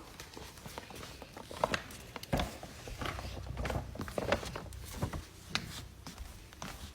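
A dog handling a gift indoors: a run of light, irregular clicks and rustles, a few each second, with no clear rhythm.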